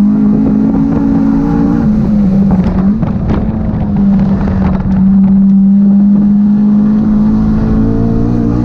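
A 9th-generation Honda's engine heard from inside the cabin, pulling hard on track at high revs. Its pitch climbs, drops about two seconds in, holds steady for several seconds, then rises again near the end.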